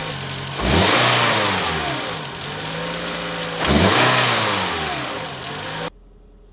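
Toyota Camry's four-cylinder engine, breathing through its stock airbox, idling and revved twice. Each rev rises quickly and settles back to idle over about two seconds. The sound drops off abruptly near the end.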